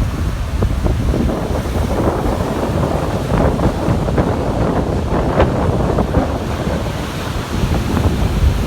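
Heavy storm surf breaking and washing on a beach, with strong wind buffeting the microphone in a continuous low rumble.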